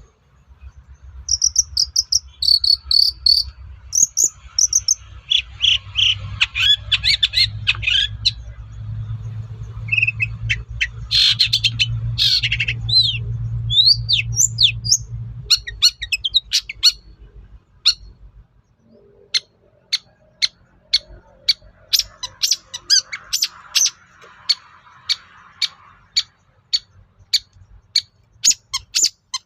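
Long-tailed shrike singing a varied song of chirps, whistled glides and trills over a low hum. In the second half it switches to a quick run of short, sharp repeated notes.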